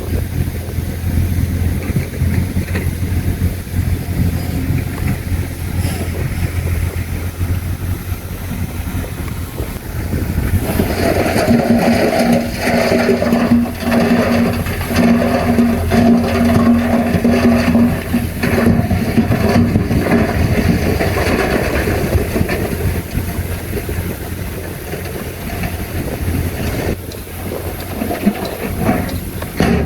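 Diesel engine of heavy earthmoving machinery running, its note rising and growing stronger as it works harder from about eleven seconds in until about twenty seconds, then easing back, with scattered clanks and knocks.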